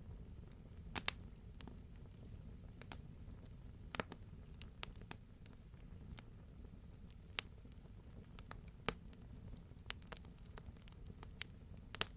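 Wood fire burning with a low steady rumble and sharp irregular crackles and pops, a few every couple of seconds, the loudest a double pop about a second in.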